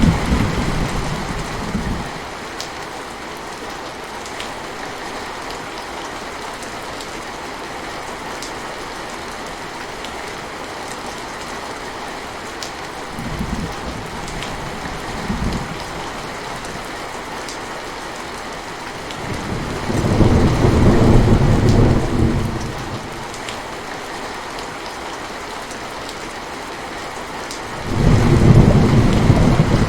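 Steady rain falling, with low rolls of thunder: one fading out as it opens, two faint ones in the middle, a longer, louder roll about two-thirds through and another near the end.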